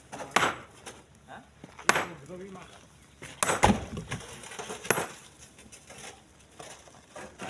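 Split stones thrown one after another into a truck's bed, each landing with a sharp clattering knock, four times about a second and a half apart.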